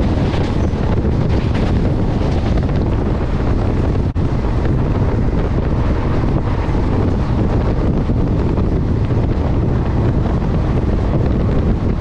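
Wind buffeting the microphone over the steady rumble of a passenger train running at speed. There is a very brief dropout about four seconds in.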